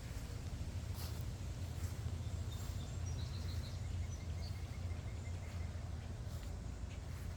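Outdoor ambience: a steady low rumble, with faint bird chirps about three seconds in and a short quick trill of soft ticks a second later.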